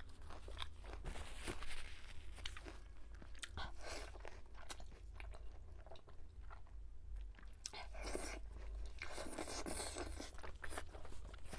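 Close-miked mouth sounds of a person eating pork knuckle with her hands: biting, chewing and smacking on meat and skin pulled from the bone, with many short clicks throughout.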